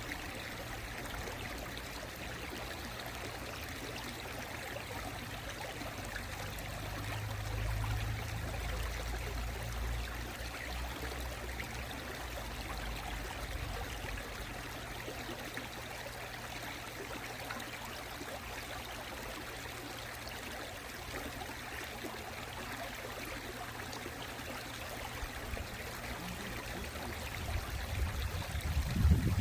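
Mountain stream water running steadily over rocks, an even rushing and trickling. A louder low rumble builds near the end.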